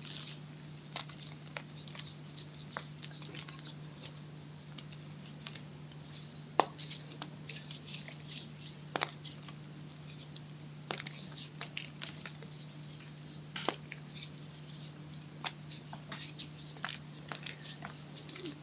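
Close-miked chalk crunching: a dense run of small, crisp crackles, with sharper snaps about 6.5 and 9 seconds in, over a steady low hum.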